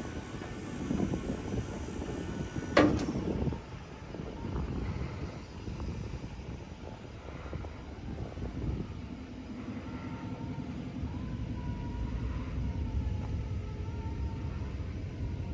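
Low vehicle rumble with a sharp clank about three seconds in, the loudest moment, settling into a steadier low engine hum over the second half.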